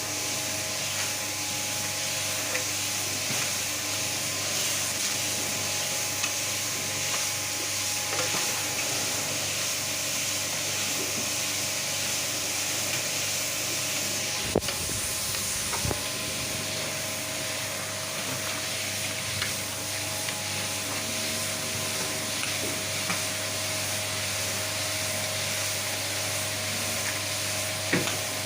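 Semi-dry floor screed machinery running steadily: a continuous hiss over a steady low motor hum, with a few light knocks.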